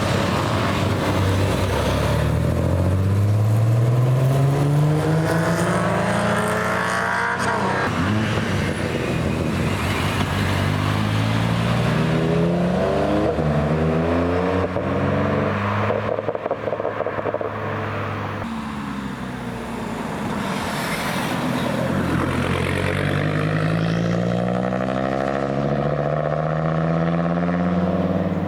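Performance car engines accelerating hard past the roadside, the engine pitch rising in three long sweeps and dropping back between them.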